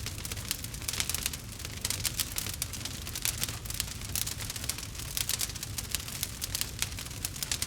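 Fireplace wood fire crackling: a dense, irregular run of sharp pops and snaps over a steady low rumble.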